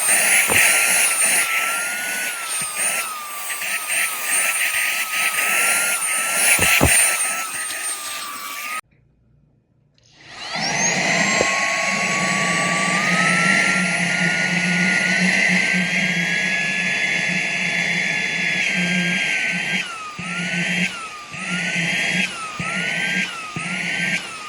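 Cordless handheld vacuum's brushless motor running with a high whine. It switches off about nine seconds in, then starts again, its whine rising over several seconds to full speed. Near the end the pitch dips and recovers about once a second.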